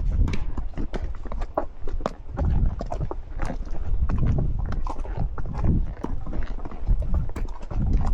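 Horse hooves clip-clopping on a stony trail, a run of uneven sharp knocks as horses are ridden at a walk.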